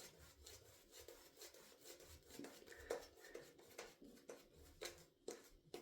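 Faint, irregular soft rubbing and small ticks of a synthetic-fibre shaving brush working tallow-based shaving soap lather on the face.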